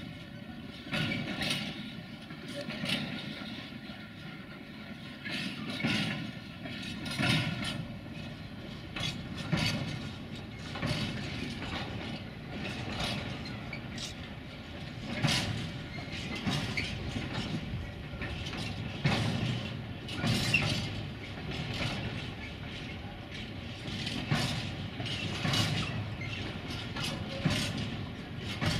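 Railway wheels knocking over rail joints as a train rolls through the yard: irregular sharp clacks over a continuous low rumble.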